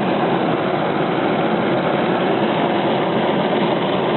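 Stirling engine running steadily: an even, continuous mechanical noise with no change in speed.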